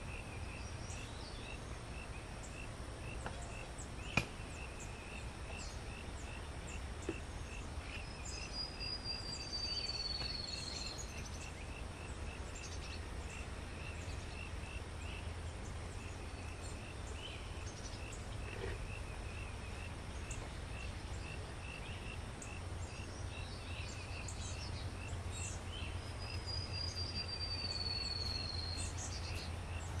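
Birds calling: a steady, evenly repeated high chirp, with a long high whistle that slides downward twice. A steady low rumble runs underneath, and there is a single sharp click about four seconds in.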